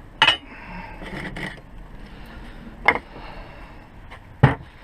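Metal tools knocking and scraping while the wheel bearing is being pushed out of the hub: three sharp knocks, one near the start, one about three seconds in and one near the end, with quieter scraping between them.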